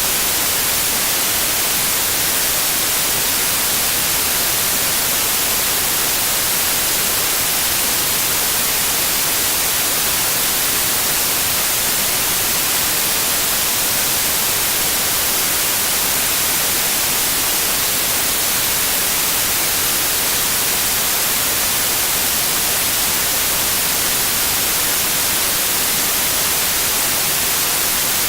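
Steady white noise: an even, unchanging hiss, strongest in the upper range, at a constant level with no events.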